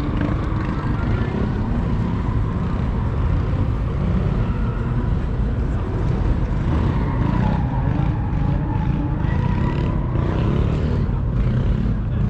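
Car engines rumbling steadily, with people talking in the background.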